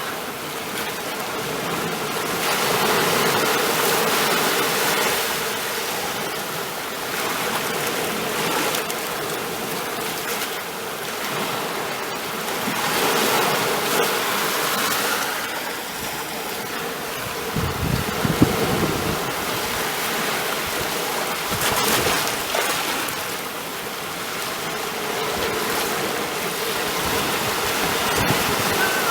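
Ocean surf washing in, its noise swelling and fading every few seconds, with a brief low rumble and a short sharp knock a little past halfway.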